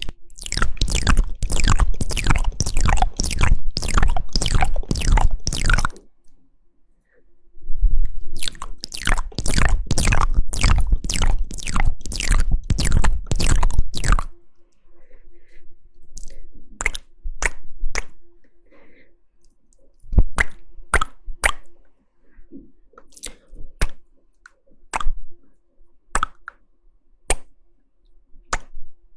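Close-miked ASMR mouth sounds: wet tongue and lip clicks and smacks. They come in two dense, rapid runs of about six seconds each with a short pause between, then thin out into slower, separate clicks.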